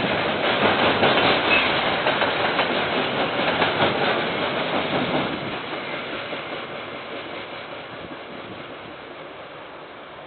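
Train passing on the rails, its wheels clacking rapidly over the rail joints; the sound fades away over the second half as the train moves off.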